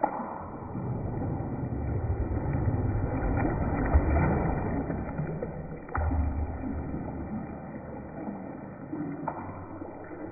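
Water sloshing in a bathtub, with a few sharp knocks: one at the start, one about six seconds in and one about nine seconds in.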